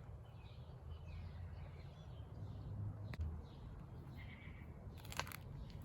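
Faint bird calls over a low steady rumble, with a single click about three seconds in and a couple of sharp knocks near the end.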